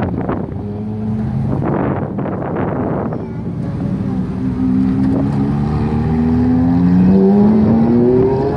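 Exotic sports car engine accelerating, its pitch climbing steadily through the revs over the second half.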